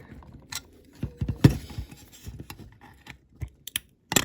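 Irregular clicks and knocks of a plastic interior and figure being prised and wiggled loose from a die-cast toy van body. The loudest knock comes about a second and a half in, with another sharp click at the very end.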